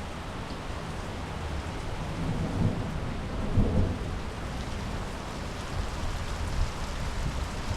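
Steady monsoon rain falling, with a low rumble of thunder swelling twice between about two and a half and four seconds in.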